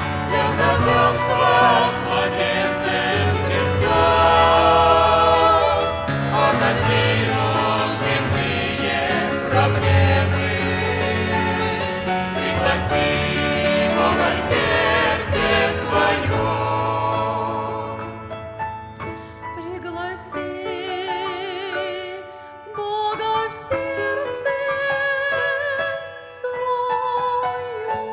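Music: a group of voices singing a Christmas song with instrumental accompaniment, full and loud for the first half, then thinning to a quieter passage with fewer voices about two-thirds of the way in.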